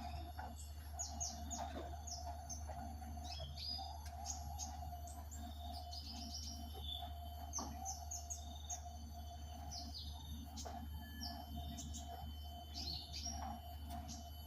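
A small pet bird chirping: many short, high chirps in quick runs, over a steady hum.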